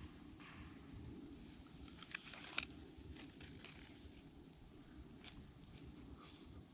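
Faint outdoor evening ambience: a steady, high-pitched insect drone over a low, even background hiss, with a couple of faint clicks a little after two seconds in.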